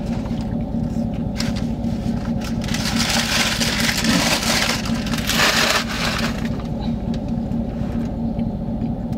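Steady low hum of a vehicle cabin with the engine idling. From about three seconds in, paper food wrappers crinkle and rustle for a few seconds as food is handled.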